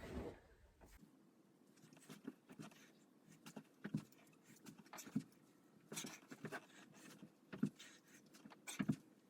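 Faint, irregular clicks and scuffles of a dog moving about a small room.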